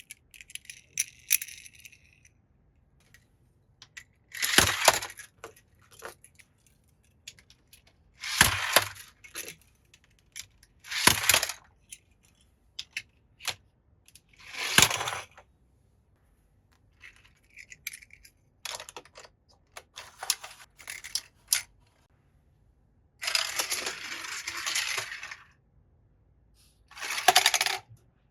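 Toy cars clinking and clattering as they are handled and set down, in separate bursts of about a second each with small clicks between. A longer rattle of about two seconds comes near the end.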